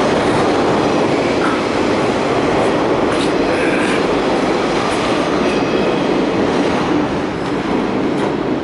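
Steady rail noise of a Kintetsu electric train, heard from inside the carriage at an underground station.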